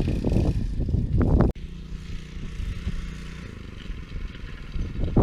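Small single-cylinder petrol engine of a homemade fat-tyre dirt bike, a 6.5 HP Lifan, running loud and rough with clattering for about a second and a half, then after a sudden cut heard quieter and steady, as at idle.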